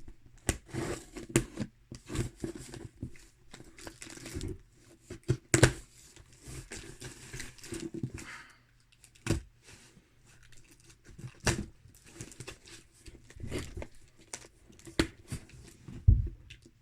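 Sellotape being cut and torn off a cardboard box, with packaging crinkling and irregular clicks and knocks.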